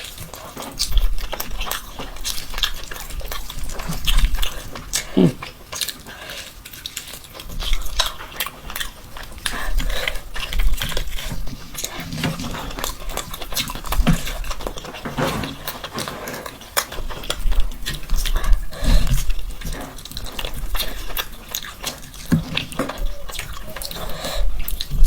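A person eating mutton mandi, close-up: chewing and biting with irregular wet clicks and smacks.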